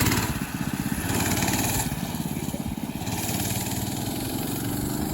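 Minibike's small engine running steadily under throttle as it is ridden over a snow jump.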